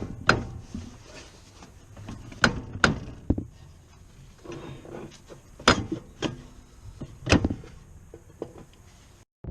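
Irregular sharp knocks and clicks, several in all with quieter clatter between, as of tools and parts being handled during mechanical work.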